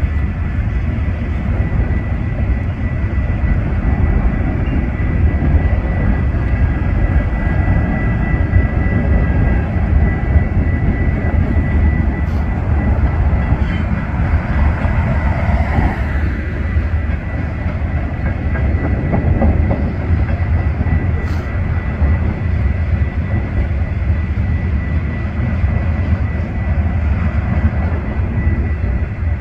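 A train running by with a steady low rumble, a steady high ringing tone over it, and a few sharp clicks around the middle.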